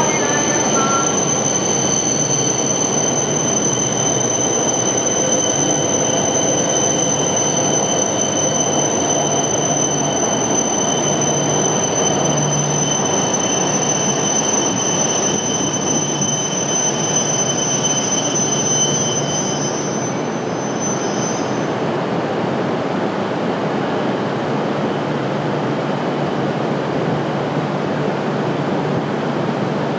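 E5 and E6 series Shinkansen coupled train moving along the platform: a steady rumble of wheels and running gear with a thin, steady high whine. About twenty seconds in the whine stops and a slightly quieter steady rumble goes on.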